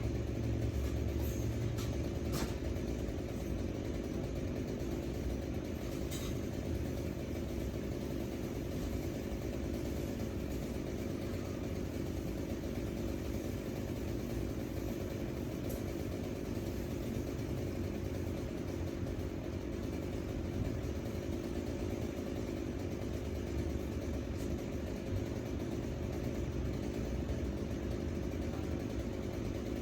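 An engine idling steadily, a continuous low hum, with a few sharp clicks or knocks over it.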